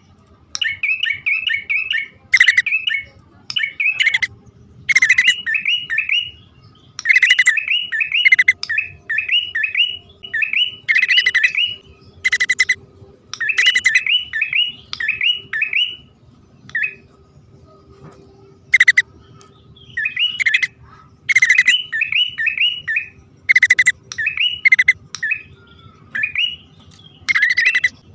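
Male and female prinias (prenjak) calling together, as played on a bird-trapping lure recording. Fast runs of sharp, repeated chirps come in bursts a second or two long, mixed with harsh high notes and short pauses between bursts.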